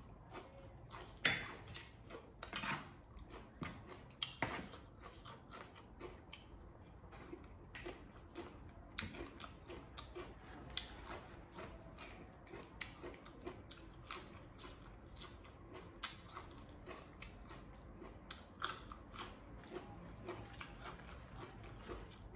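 A person chewing and biting crunchy food close to the microphone, with many small, irregular crisp crunches.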